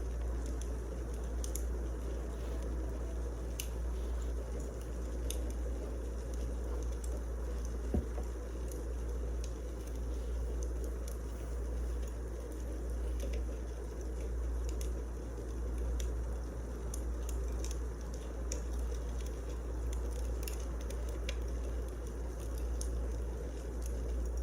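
Wood fire burning in a fireplace: steady crackling with scattered small snaps over a low rumble, and one sharper snap about eight seconds in.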